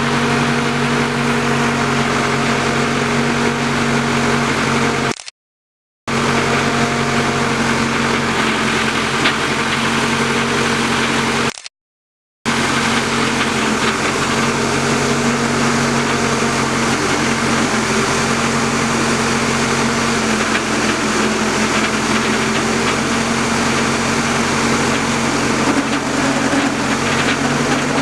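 Tractor engine driving an auger rig, running steadily. The sound drops out to dead silence twice for under a second each time.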